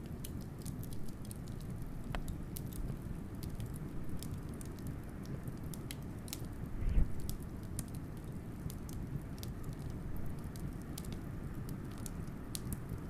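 Wood fire crackling, with frequent sharp little snaps over a steady low rumble. One louder pop comes about seven seconds in.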